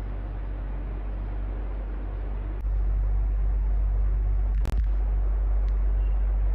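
Electric fan running with a steady whoosh and a low hum. The low rumble steps up louder about two and a half seconds in, and there is a short click with a brief dip in level past the middle.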